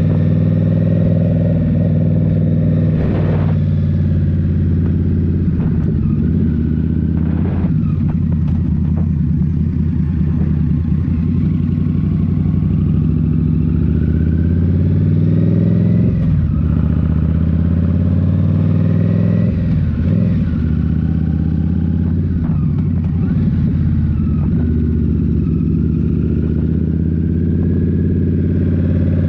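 Indian Scout Rogue's 69 cubic inch V-twin engine through a Rinehart slip-on exhaust, running under way with the throttle varying. The engine note dips briefly several times.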